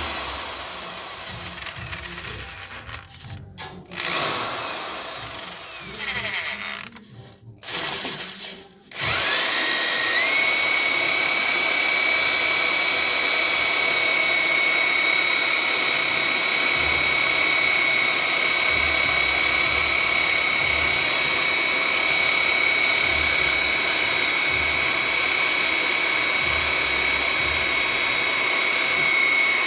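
Electric power tool motor running: it stops and restarts briefly a few times, then spins up with a rising whine and runs steadily at full speed.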